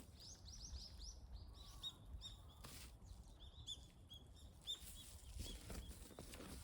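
A small bird chirping faintly in quick runs of short, high notes, with a few soft rustling sounds in between.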